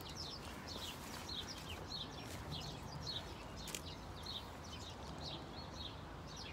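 A bird singing outdoors: a run of short, high chirps, each falling in pitch, repeated about two or three times a second over a low, steady background rumble.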